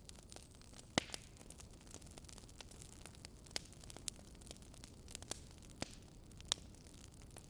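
Wood fire crackling faintly: irregular sharp pops and snaps over a low steady hiss, with a louder pop about a second in and another near the end.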